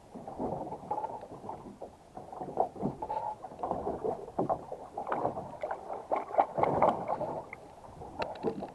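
Irregular scraping and sloshing from cleaning work on a boat, with a few sharper knocks near the end.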